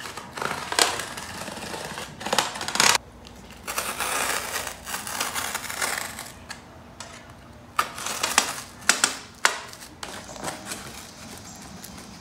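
Cardboard being cut to make a window flap in a box: a run of rough scraping rasps broken by sharp clicks and knocks, with a cluster of clicks about eight to nine and a half seconds in.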